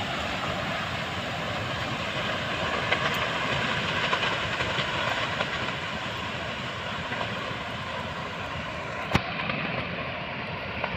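Tornado-force wind making a steady rushing noise, with one sharp knock about nine seconds in.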